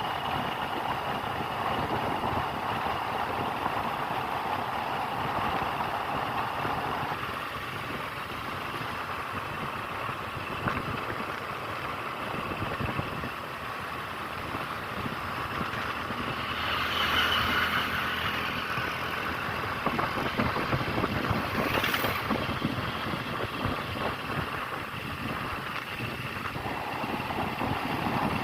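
Steady vehicle engine and road noise. It swells louder for a few seconds about two-thirds of the way through, and there is a single sharp click late on.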